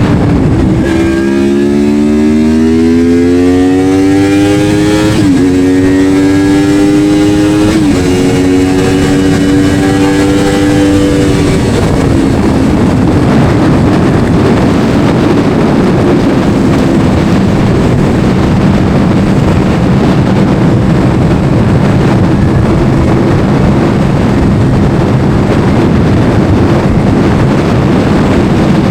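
Yamaha R1 inline-four engine accelerating hard, its pitch climbing with two upshifts about five and eight seconds in, then settling into a steady cruise with heavy wind rush on the microphone.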